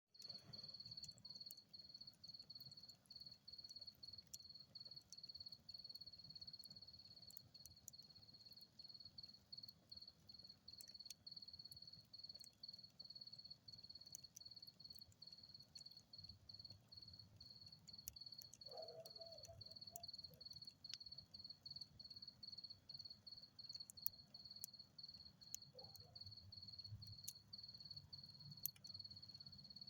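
Crickets chirping in a steady, high-pitched pulsing trill, faint, with scattered small sharp crackles from a campfire.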